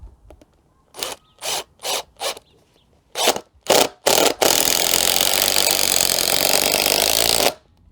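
Parkside cordless impact driver driving a 100 mm screw into stacked wooden blocks: seven short trigger bursts to start the screw, then a continuous run of about three seconds that cuts off suddenly.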